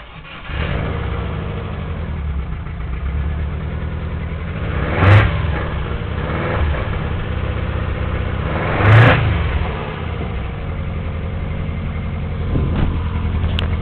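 Subaru EJ22 2.2-litre flat-four engine, freshly swapped into a VW T25 van, starts about half a second in and keeps running. It is blipped twice with rising and falling revs, the loudest moments, then settles back to a steady idle.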